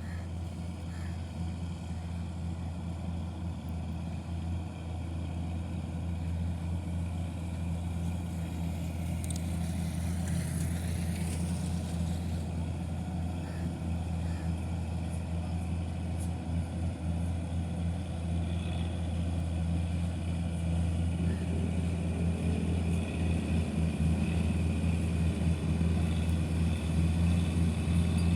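Heavy vehicle diesel engine running steadily, growing gradually louder toward the end, with a brief hiss about ten seconds in.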